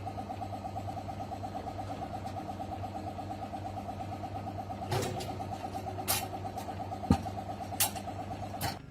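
A machine running steadily with an even, rapid pulse, about six or seven beats a second, over a low hum. From about halfway through come five sharp knocks.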